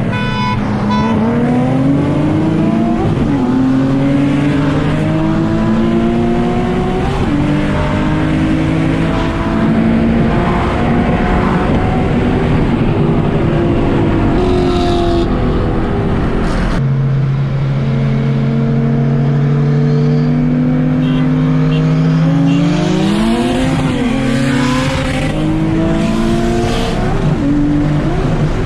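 Nissan 370Z's V6 engine accelerating hard under full throttle, its pitch climbing slowly through each gear and dropping at each upshift. The sound breaks off sharply about two-thirds of the way in, and a second hard pull starts.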